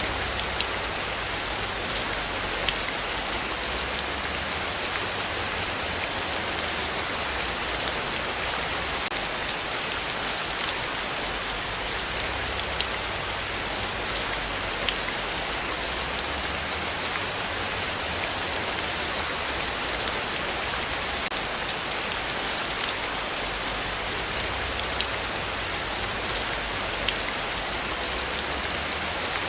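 Heavy rain falling steadily, an even hiss dotted with faint ticks of single drops. A low rumble underneath swells and fades every few seconds.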